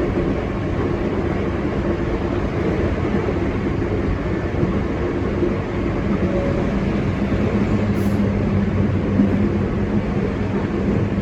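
Hankyu Imazu Line electric train running between stations: a steady rumble of wheels on rail with a low motor hum that grows a little stronger in the second half.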